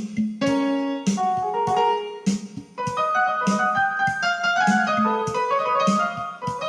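Yamaha PSR-E403 portable keyboard playing a piano-voiced melody over a steady drum rhythm.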